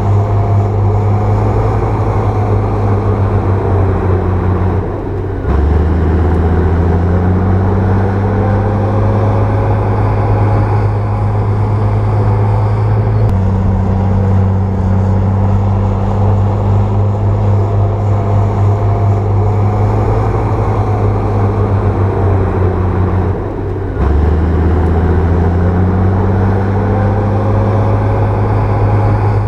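Komatsu bulldozer's diesel engine running under load. Its note drops briefly twice, about five seconds in and again near twenty-three seconds, then climbs back up as the engine picks up.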